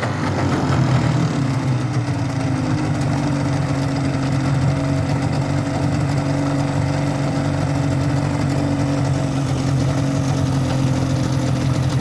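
Yamaha 25DM two-stroke 25 hp outboard motor running. Its revs drop during the first second or so, then it settles into a steady idle.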